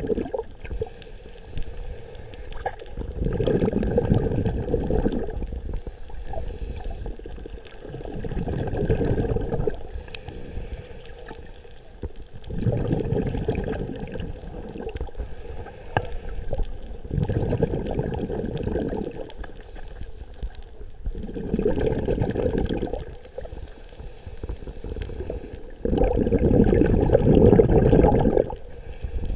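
Scuba diver's exhaled bubbles from the regulator, heard underwater through the camera housing: a bubbling rush about every four to five seconds, each lasting a couple of seconds, with quieter gaps between breaths.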